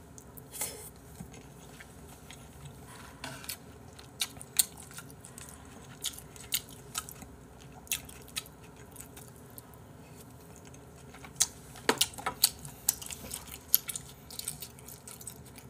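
A person chewing and eating from a spoon, with scattered short wet mouth clicks. The clicks are sparse at first and come more often about twelve seconds in.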